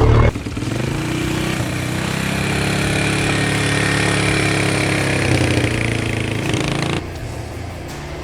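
Polaris Sportsman 335 ATV's single-cylinder four-stroke engine running under way at a fairly steady pitch. Its level drops suddenly about seven seconds in, to a quieter engine sound.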